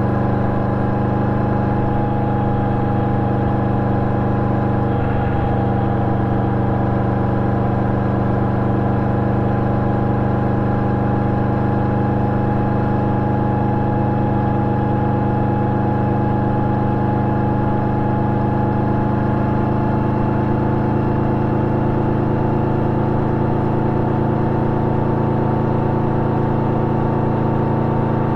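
Yamaha VMAX 1700's V4 engine running through an Akrapovic exhaust with its dB-killer fitted, held at one steady engine speed with no change in pitch or level.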